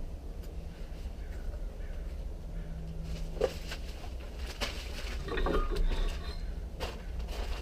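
Building work at a brick wall: a few sharp knocks and clicks, the loudest about three and a half seconds in, over a steady low hum.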